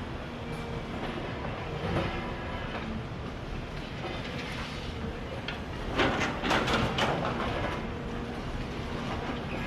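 Demolition excavator running steadily while breaking down a building, with a burst of crashing and clattering debris about six to seven seconds in.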